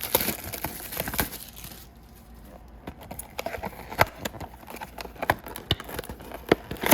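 A trading-card box and its packs being handled and opened: rustling for the first two seconds, then scattered sharp clicks and taps.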